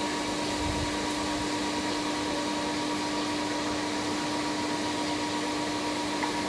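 Steady fan whir with a constant electrical hum from the running battery-charging equipment, cutting off abruptly at the very end.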